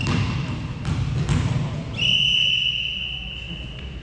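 A few thuds of a volleyball being struck during a rally, then a referee's whistle sounds about two seconds in: one long, steady, high note that fades after more than a second.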